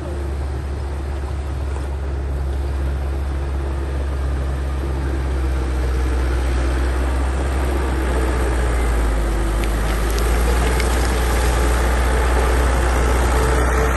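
Heavy earthmoving machine's diesel engine running steadily with a deep low rumble, growing gradually louder.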